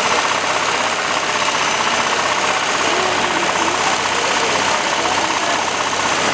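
Diesel tractor engine running steadily with a fast, even clatter.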